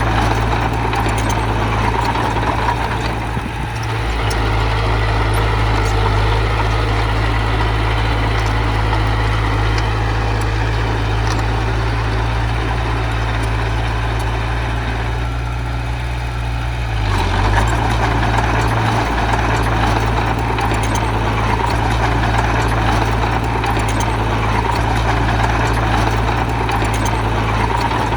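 Diesel engine of heavy earth-moving machinery running steadily under work, its noise easing briefly past the middle and then picking back up.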